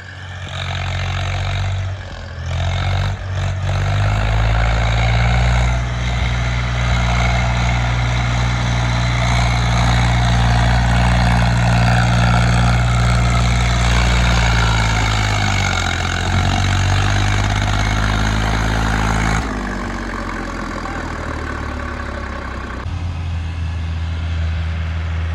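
A tractor's diesel engine running steadily under load, with a few knocks in the first few seconds. Its pitch dips and recovers about two-thirds of the way through, then drops to a lower, quieter note.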